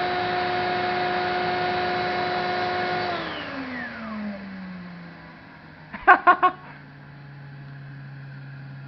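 İhlas Aura Cleanmax vacuum motor running at high speed with a steady whine. About three seconds in, the pitch glides down as the motor slows to a lower, quieter speed. About six seconds in come four short, sharp sounds in quick succession.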